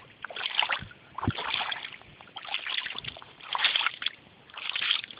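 Bare feet wading through shallow seawater, each step a splashing swish, about one a second.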